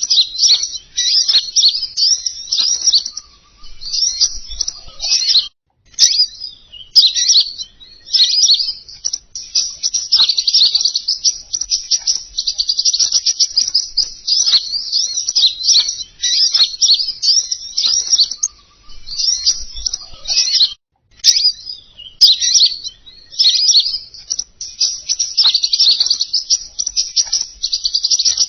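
Recorded lure-call song of the small songbird that Indonesian bird-keepers call 'king konin': fast, high, unbroken twittering phrases, with a couple of brief pauses.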